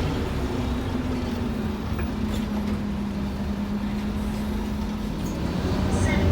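Interior sound of a Scania N230UD OmniCity double-decker bus on the move: the diesel engine drones steadily with its note slowly sinking. It picks up and grows louder again near the end, with a few faint rattles.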